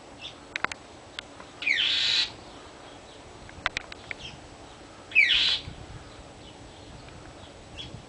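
A bird's harsh scolding calls, each about half a second long, twice: the calls of a bird mobbing a cat.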